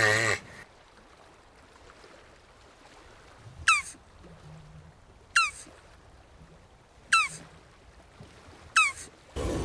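Jabuti tortoise calling: four short, high calls, each falling in pitch, evenly spaced about a second and a half apart.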